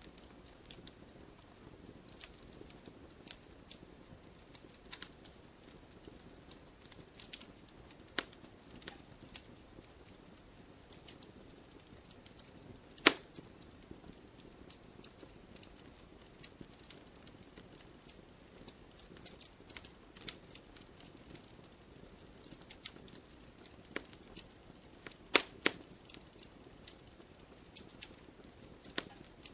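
Campfire crackling: a soft hiss of burning wood with scattered sharp pops at irregular intervals. One loud pop comes about halfway through and two more near the end.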